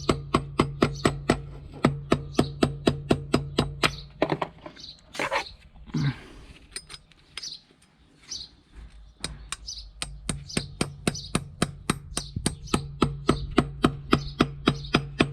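Steady, light hammer taps on metal, about three or four a second, gently driving the new front wheel bearing seal into the hub. The tapping stops for a few seconds in the middle, with some handling noise, then resumes.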